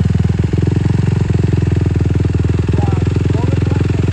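Dirt bike engine idling steadily, with a fast, even firing pulse.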